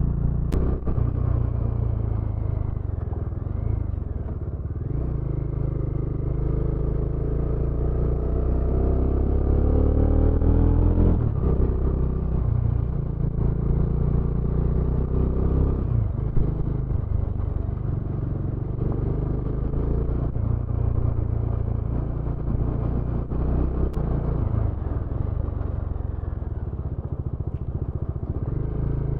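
Motorcycle engine running on the move, its pitch climbing for several seconds under acceleration and then dropping suddenly about eleven seconds in, before running steadier again.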